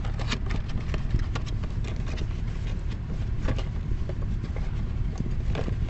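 Irregular clicks and light taps of an ignition coil and its packaging being handled, over a steady low rumble.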